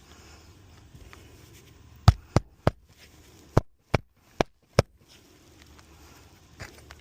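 Seven sharp knocks of nails being driven into replacement roof shingles, in a quick run of three and then a run of four.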